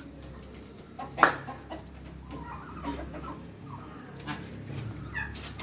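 Domestic turkeys calling: one sharp, loud call about a second in, then softer scattered clucks, and a short falling call near the end.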